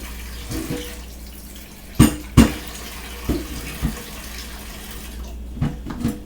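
Kitchen tap running into a sink, stopping about five seconds in, with dishes knocking: two sharp knocks about two seconds in and a few softer clunks.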